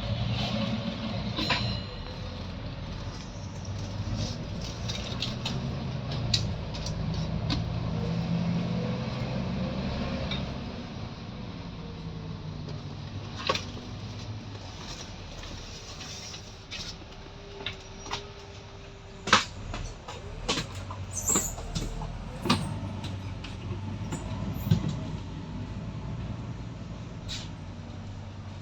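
Volvo B9TL double-decker bus's diesel engine running under way, pulling harder for the first ten seconds or so and then easing off. Sharp knocks and rattles come through in the second half.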